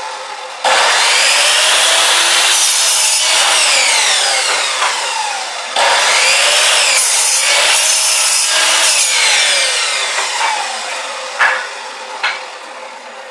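Chop saw cutting through wood twice, each cut starting suddenly with the blade's whine gliding in pitch. A few sharp knocks follow near the end.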